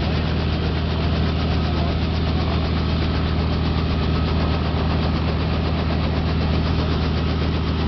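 Robinson R44 helicopter running steadily, its piston engine and rotor giving an even low drone with a fast regular beat.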